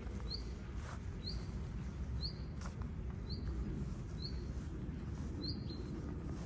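A bird repeating a single short, rising chirp about once a second, over steady low background rumble.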